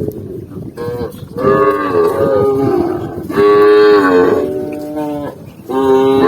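Cows mooing: three long, loud moos in succession, with calls from another cow overlapping them.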